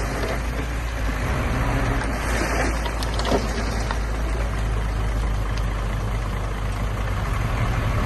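Heavy diesel earthmoving machine, most likely a bulldozer, with its engine running steadily and a few brief knocks over the drone.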